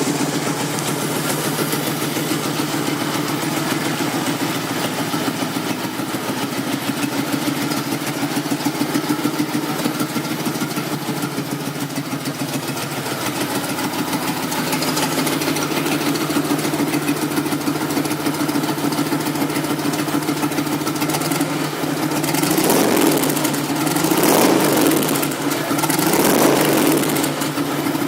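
Fuel-injected 88 cubic inch V-twin of a 2001 Harley-Davidson Electric Glide, just started and idling steadily at a really low idle. It is blipped up and back down about three times near the end.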